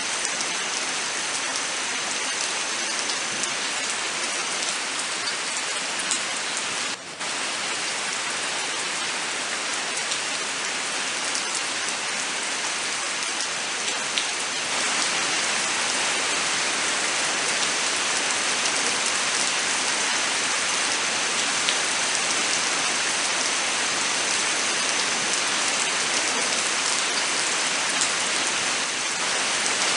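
Steady rain falling, a dense even patter with scattered sharper drop hits. It drops out for a moment about a quarter of the way in, and gets a little louder from about halfway.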